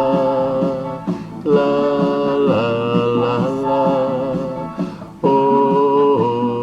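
Man singing long held 'la la' notes over a backing track with guitar. The phrases start again about a second and a half in and about five seconds in, each sliding down in pitch at its end.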